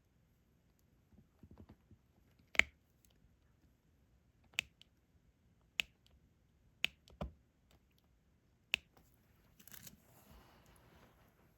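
Diamond painting work: sharp single clicks, about one every second or so, as resin drills are tapped into place on the canvas with the drill pen, and a short soft rustle near the end.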